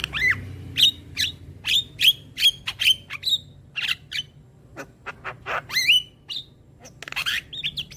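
Javan myna (jalak kebo) calling: a quick run of short, harsh squawks and chirps, about two a second, some ending in a brief whistled note, with a couple of short pauses.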